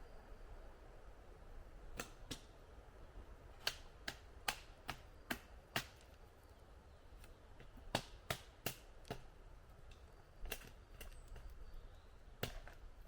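A series of about fifteen sharp knocks or snaps, irregularly spaced and coming in small clusters, typical of wood being cut, split or broken by hand.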